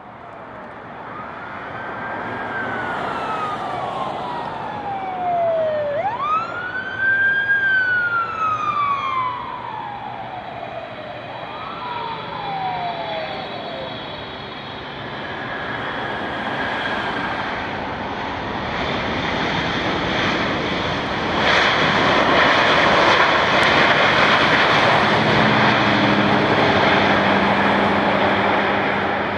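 Boeing 777-300ER jet engines passing on a landing approach: a whine that falls in pitch several times over a steady rushing noise, then a louder, broader roar building about two-thirds of the way through.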